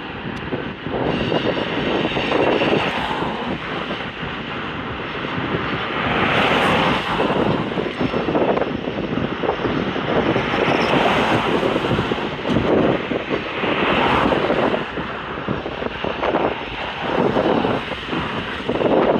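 Freight train rolling past, a loud continuous rushing rumble that swells and eases every few seconds.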